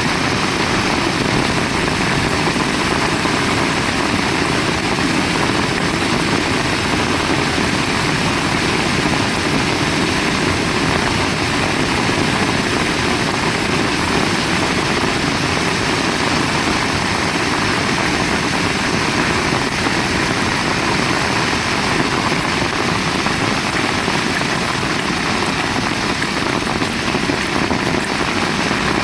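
Heavy rain pouring down steadily, a dense, unbroken rush of noise.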